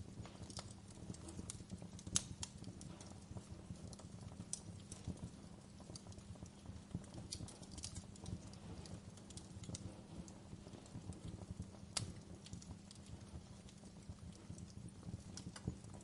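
Wood fire crackling in a fireplace: irregular sharp pops and snaps over a steady low rumble, with a louder pop about two seconds in and another about twelve seconds in.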